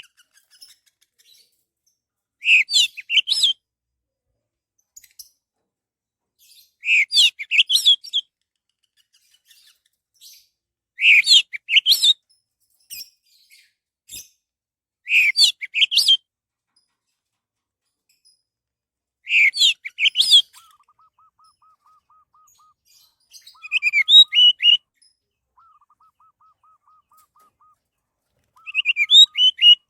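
Orange-headed thrush singing: short phrases of quick, rising and falling whistled notes, one about every four seconds, seven in all. In the second half a faint, fast run of repeated lower notes sounds between the phrases.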